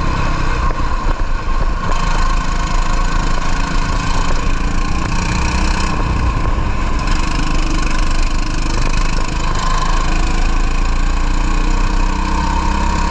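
Racing kart engine running steadily at moderate revs, with a broad rushing noise over it.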